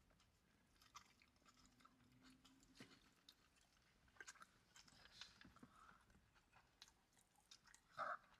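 Faint close-up chewing of two people eating burgers and fries, with scattered small wet clicks. A brief louder mouth sound comes near the end.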